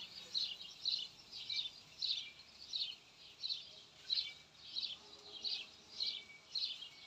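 A small songbird chirping over and over in an even rhythm, about two short high chirps a second.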